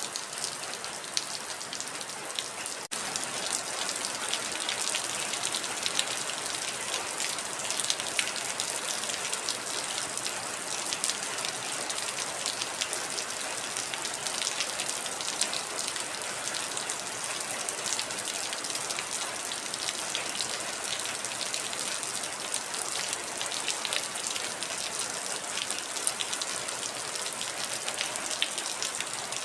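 Heavy rain falling steadily, a dense patter of individual drops over a constant rush. It gets slightly louder about three seconds in.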